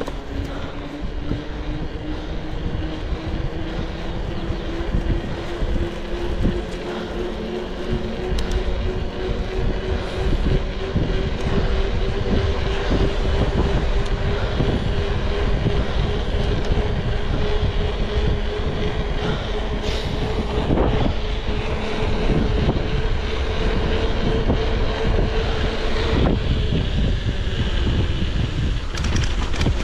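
A vehicle engine pulling under load, its pitch rising slowly and steadily for about 26 seconds before it drops away, over a heavy low rumble.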